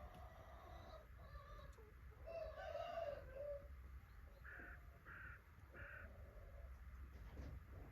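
Faint bird calls: one longer call about two and a half seconds in, then three short, evenly spaced calls.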